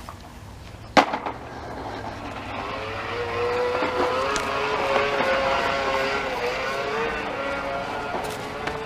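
Toy bubble lawn mower running as it is pushed: a click about a second in, then a wavering motor whir that grows louder.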